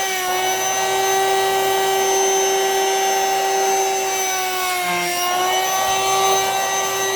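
Vacuum cleaner motor running steadily, drawing air out of a vacuum storage bag packed with plushies; its pitch sags briefly about five seconds in, then recovers.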